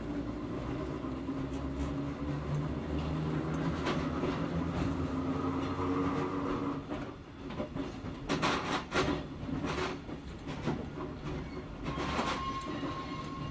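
Hakone Tozan Railway Moha 1 electric railcar with nose-suspended traction motors, heard from inside the car while running: a steady drone of several motor and gear tones, then a burst of clacking about eight to ten seconds in.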